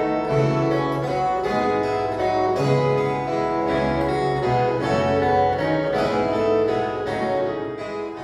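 Instrumental music of bright plucked steel strings with a harpsichord-like tone, typical of viola caipira, playing a melody over low bass notes. It fades out near the end.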